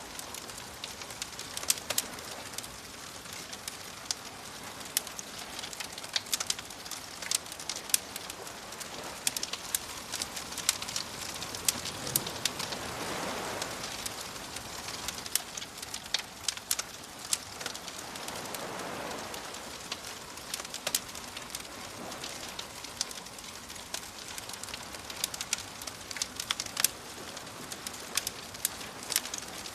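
Bonfire crackling with frequent sharp pops over a soft wash of waves; two waves swell and break, one near the middle and another a few seconds later.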